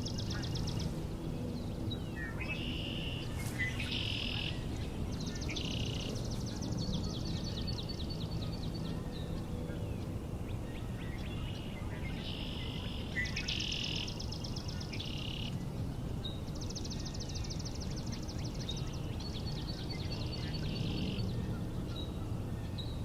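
Swamp sparrows singing, several birds trading and overlapping their even, trilled songs of rapidly repeated notes, each song lasting a second or two, over a steady low rumble of background noise.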